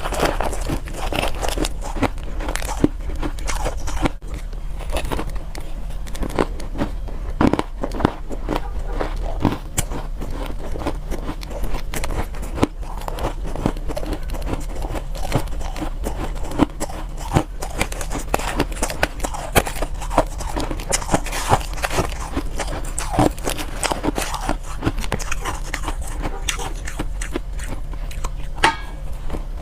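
Soft ice being bitten and chewed up close: a continuous run of crisp, irregular crunches, several a second.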